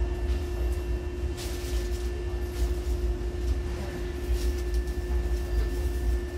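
Hankyu electric train standing at the platform with its doors open: its onboard equipment gives a steady electrical hum over a low rumble, with a few short bursts of hiss.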